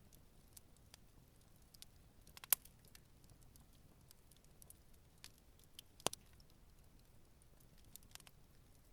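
Wood campfire burning gently: a steady scatter of soft crackles, with two sharp louder pops, about two and a half seconds in and about six seconds in.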